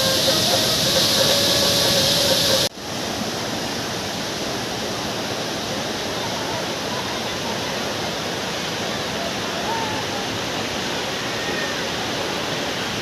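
Swollen monsoon waterfall rushing steadily with a heavy volume of water. For the first couple of seconds a louder hiss with a held tone plays, cutting off suddenly about three seconds in.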